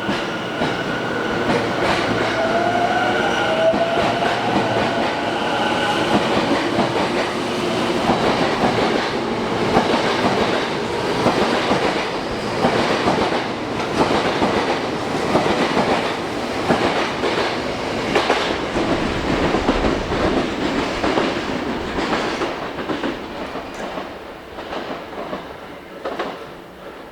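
Tokyo Metro 10000 series electric train pulling away from a station: a motor whine rises in pitch over the first few seconds, then the wheels clatter over rail joints in a steady run of clicks as the cars go by, fading near the end.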